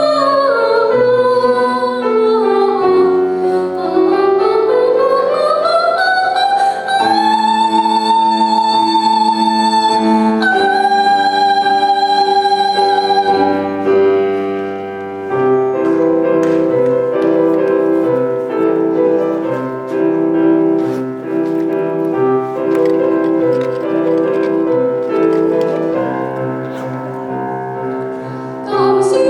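Classical-style solo singing with piano accompaniment. The voice slides down and back up, then holds long notes with vibrato. About fifteen seconds in the voice drops out and the piano plays on alone, and the voice comes back right at the end.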